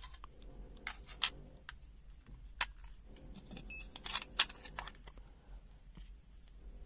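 Scattered small clicks and taps of AAA batteries and a plastic pen-type multimeter's battery compartment being handled, the sharpest click about four seconds in.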